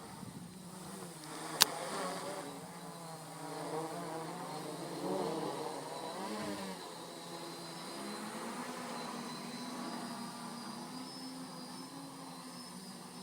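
Quadcopter's brushless motors and propellers buzzing, their pitch drifting up and down as the throttle changes, with one sharp click about a second and a half in.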